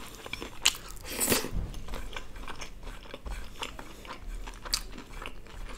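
A person chewing food close to the microphone, with moist mouth sounds and small crunches. A few louder crunches come about a second in and again near the end.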